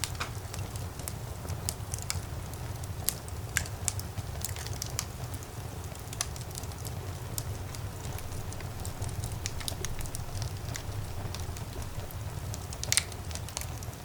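Fire in a fireplace crackling: irregular sharp pops and snaps over a steady low rumble of the flames, with one louder pop about 13 seconds in.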